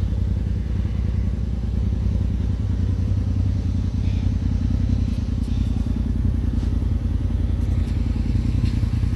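Polaris RZR Turbo's turbocharged twin-cylinder engine idling steadily through a full Trinity aftermarket exhaust, a fast even low pulsing.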